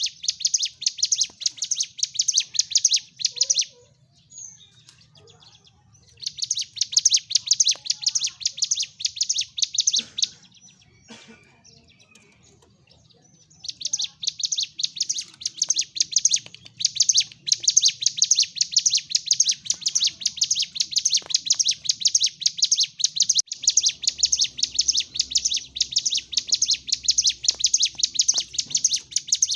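Ciblek gunung, a prinia, singing a rapid, high-pitched chattering song in fighting mode. It breaks off about four seconds in and again around ten seconds in, then sings on without stopping.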